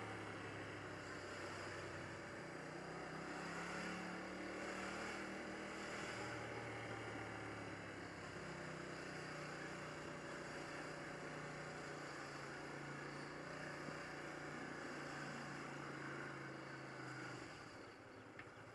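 Car cabin noise while driving: a steady low engine hum over tyre and road noise, the engine's pitch shifting a little now and then.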